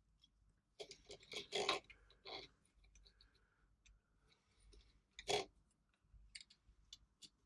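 A few short puffs of air from a hand blower blown into a sewing machine's tension discs to clear fluff that may be stopping them tightening, with a stronger puff about five seconds in and a few small clicks of handling.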